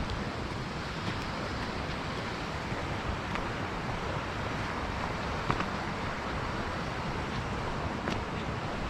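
Steady rushing outdoor noise, of the kind made by wind on the microphone or by running water, with a few faint clicks and one brief knock about five and a half seconds in.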